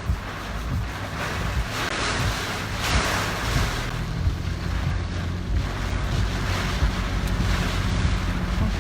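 Car driving on a rain-soaked road in typhoon weather: a steady hiss of tyres on water and rain, over a low road and engine rumble, swelling louder about two to three seconds in.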